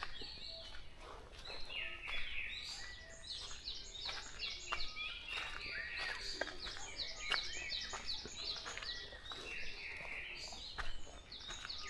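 A dawn chorus: several songbirds singing at once in quick, overlapping chirps, whistles and trills, with no single song standing out.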